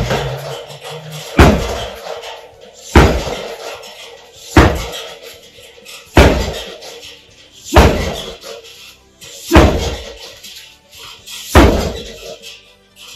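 Swing punches with a rope-wrapped forearm slamming into a homemade punching bag built from old truck tyres. There are eight heavy, evenly paced blows, about one every one and a half seconds, each dying away quickly.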